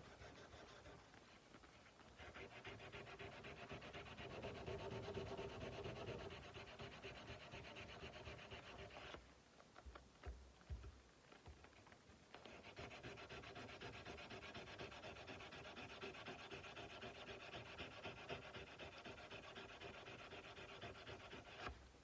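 Sandpaper rubbed by hand in quick back-and-forth strokes along the steel blade of a Nepalese kukri, in two long spells with a pause of about three seconds in between, where a few light knocks are heard.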